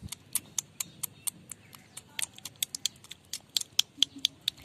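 A rapid, irregular run of small sharp clicks, about five a second.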